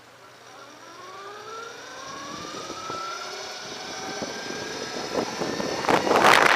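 Throne SRPNT electric motorcycle pulling away from a stop, its motor whine rising steadily in pitch and level as it speeds up. About six seconds in, wind noise on the microphone rushes in and drowns it.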